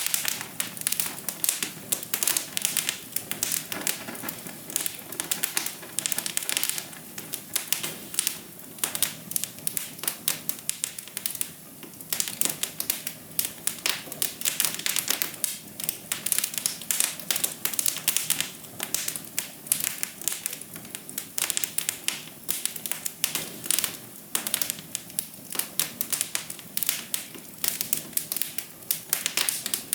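Wood fire crackling: many quick, irregular pops and snaps over a soft, steady hiss.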